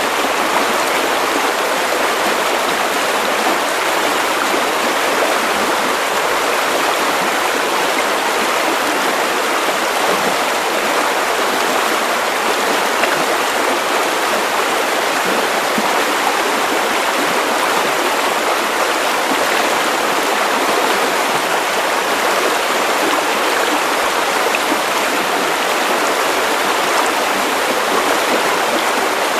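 Steady white noise: an even, unbroken hiss with little bass, unchanging throughout.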